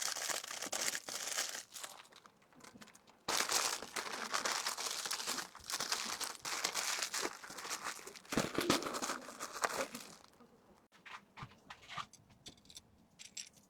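Plastic packaging crinkling and rustling as small items are handled and packed, in long noisy stretches, then a few light clicks and taps toward the end.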